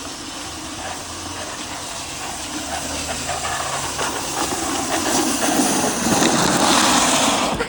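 Rolling rumble and hiss of a cart's wheels running down a hill, growing louder as it nears, then cutting off suddenly at the end.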